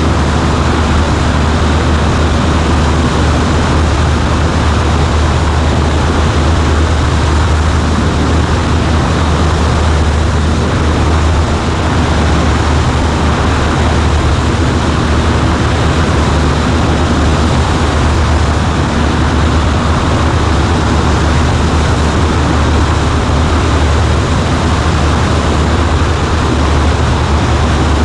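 Cessna 140A's engine and propeller running steadily, most likely in flight: a constant low drone under an even rush of air noise, with no change in pitch or power.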